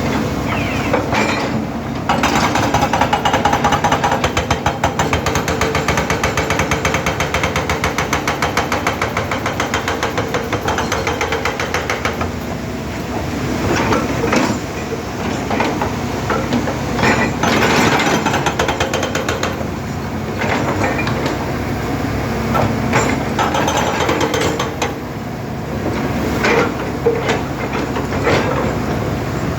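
Excavator at work: its diesel engine runs under load with a rapid, even pounding for about the first ten seconds, then irregular metal clanks and scrapes.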